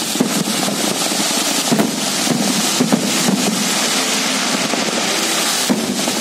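Fireworks going off in a continuous barrage: a dense crackle of many small pops and bangs over a steady rushing hiss, with no pause.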